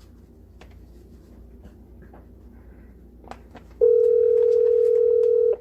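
A telephone line heard through the phone's speaker: faint line hiss with a few small clicks, then a ringback tone, one steady electronic beep, starting about four seconds in and cutting off sharply about two seconds later.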